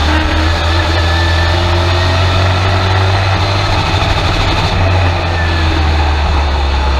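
Race truck's engine running steadily at low revs, heard from inside the cab.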